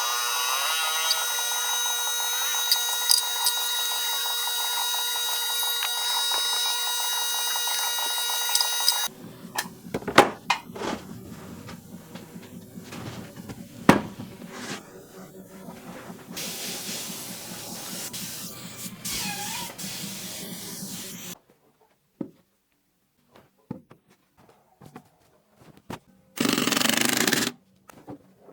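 A small power tool's motor spins up and runs steadily with a high whine, then stops. Knocks and handling clatter follow, and near the end there is a short burst of hiss.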